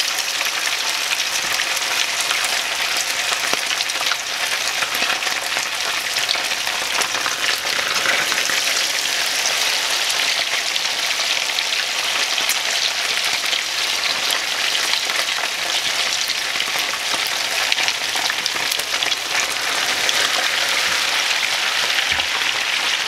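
Striped bass fish cakes shallow-frying in about half an inch of oil in a cast iron skillet: a steady, dense sizzle with constant fine crackling.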